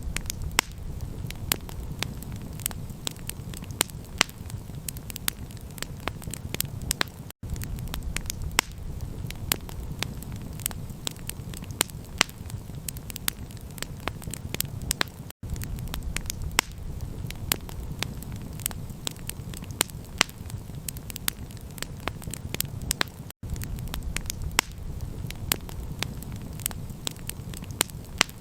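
Campfire crackling: a dense run of sharp pops and snaps over a steady low rumble. The sound cuts out for an instant three times, about eight seconds apart.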